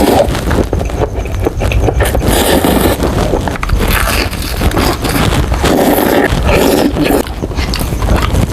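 Close-miked crunching and chewing of crispy Jollibee fried chicken, in irregular bursts over a low rumble.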